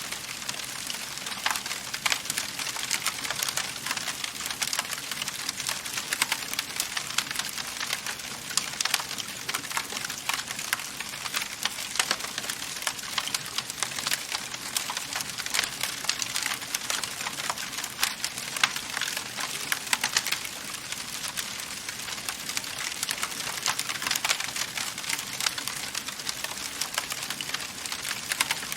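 Wood fire in a fireplace crackling steadily, with dense small pops and snaps over a constant hiss and no let-up.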